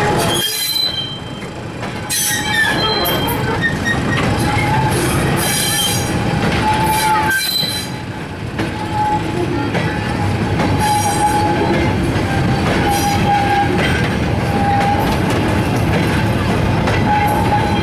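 Heritage diesel train running on the line, a steady rumble with a thin wheel squeal coming and going.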